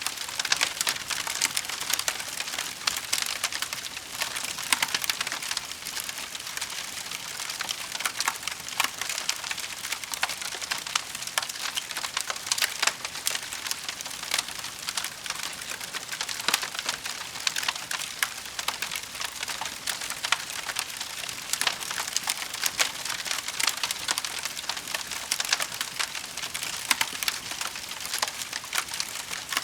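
Wood fire crackling and popping steadily, with dense sharp snaps over a soft hiss of burning logs.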